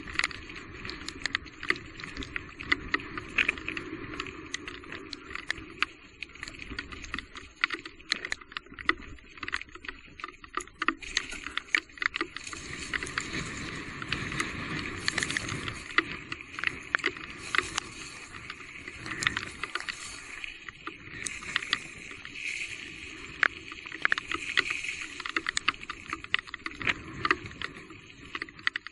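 Electric mountain bike being ridden over a rough, wet trail: a constant clatter of sharp knocks and rattles over a wash of water and tyre noise.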